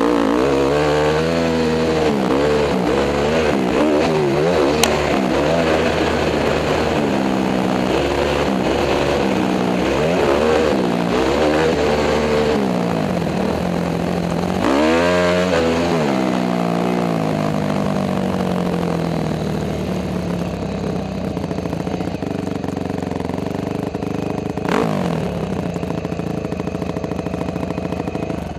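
Honda CRF250 dirt bike's single-cylinder four-stroke engine under way, its pitch repeatedly rising and falling with throttle and gear changes, with one sharp climb about halfway through and steadier running after it. The sound cuts off abruptly at the end.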